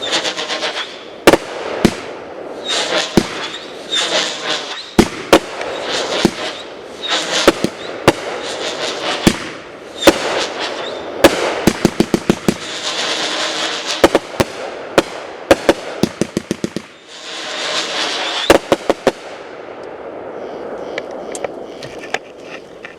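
Brothers Fireworks 'Parrots Prattle' 500-gram, 36-shot cake firing: sharp bangs and quick rattling strings of reports, each followed by a hissing, crackling burst. It fades to a faint crackle with a few small pops near the end.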